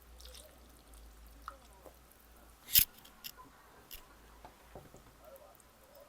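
Close-up eating sounds at the start of a meal: scattered light clicks of utensils and food, with one sharp crack a little under three seconds in and a few smaller clicks after it.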